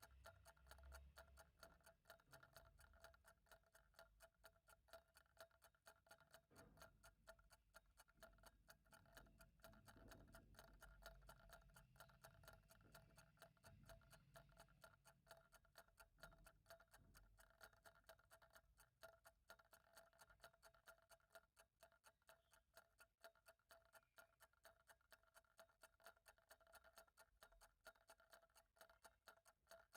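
Clock ticking faintly and steadily, in an even rhythm.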